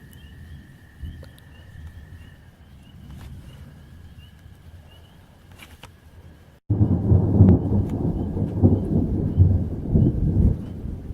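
Thunder: a faint low rumble, then about two-thirds in, after a momentary dropout, a loud deep rumble that lasts a few seconds and fades near the end. A steady high tone and a faint repeated chirping sit underneath.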